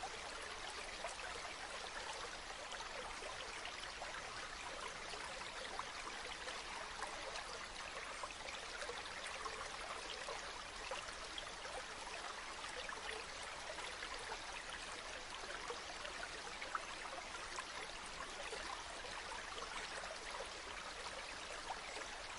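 Running water flowing steadily, an even rush sprinkled with many small splashes and drips.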